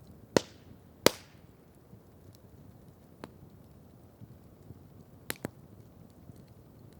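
Wood campfire crackling: two loud, sharp pops about seven-tenths of a second apart near the start, then a softer pop and a quick pair of pops about five seconds in, over a faint low background noise.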